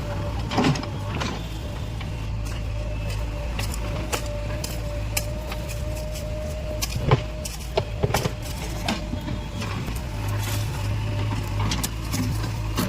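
JCB backhoe loader's diesel engine running steadily, with a thin steady whine over it and scattered sharp clanks and knocks, the loudest about seven seconds in.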